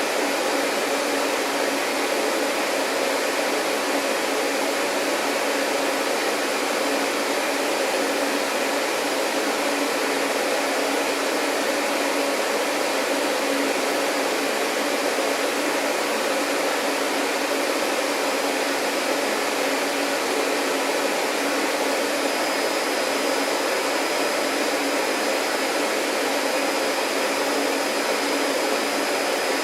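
Vacuum cleaner running steadily, a constant rushing hum with no change in load. A faint high whistle comes in about two-thirds of the way through.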